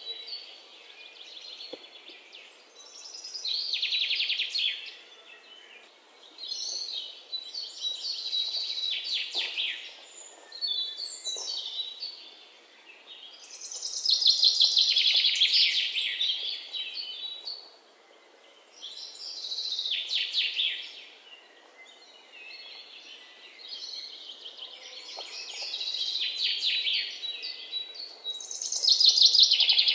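Small songbirds chirping and trilling in repeated phrases of a couple of seconds each, coming and going about every five seconds.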